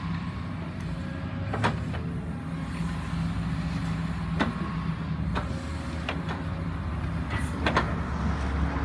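A heavy diesel engine running steadily at a low pitch, with several sharp metallic knocks.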